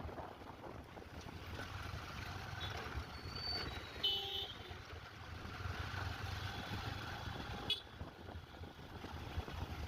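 Motorcycle on the move in traffic: a steady low engine rumble under road and wind noise, with a short high-pitched tone about four seconds in.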